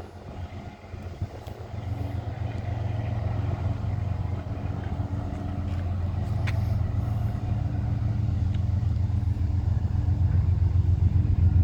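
Low, steady rumble of a diesel-hauled freight train approaching, growing steadily louder from about a second and a half in.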